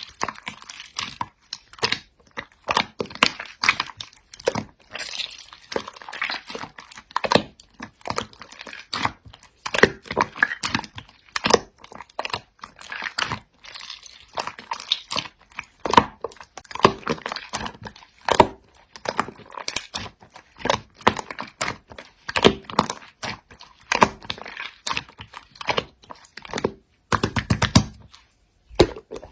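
Slime being squished and poked by hand, a dense, irregular stream of sticky clicks and small pops, with a short, louder squelching burst near the end.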